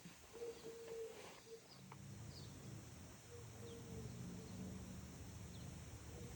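Faint low cooing bird calls, short repeated notes, over a low steady hum that comes in about two seconds in.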